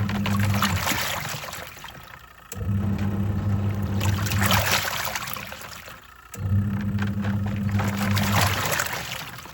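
Twin-tub washing machine washing: the wash motor hums for about two seconds, stops, and starts again, three times over, as the pulsator turns one way and then the other, with water sloshing in the tub throughout.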